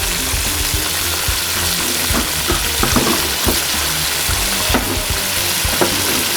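Chicken frying with onion, ginger-garlic and ground spices, sizzling steadily in oil while it is stirred, with the spoon knocking against the pot several times.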